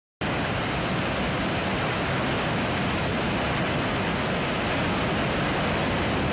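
Waterfall pouring steadily, a dense even rush of falling water.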